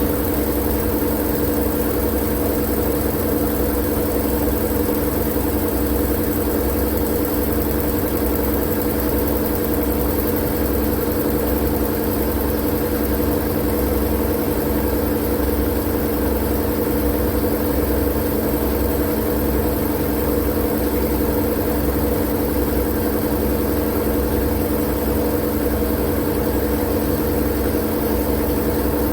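Steady, unchanging sleep noise: a constant hiss over a deep rumble, with a few steady low hum tones. There are no changes or breaks.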